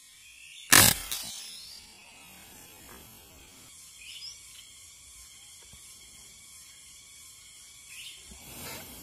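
A single air rifle shot about a second in: one sharp crack with a short tail. Under it runs a steady drone of insects, and there are a couple of short bird chirps later on.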